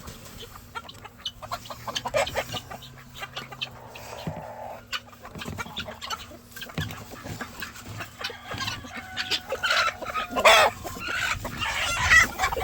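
A flock of chickens clucking, with many short calls throughout and a few louder calls near the end.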